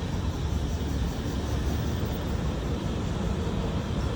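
Steady low rumble of outdoor background noise with an even hiss over it.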